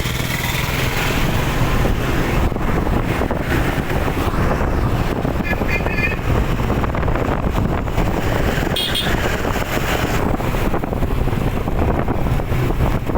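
Road traffic and vehicle engine noise with wind on the microphone, steady throughout, with short high beeps about six seconds in and again near nine seconds.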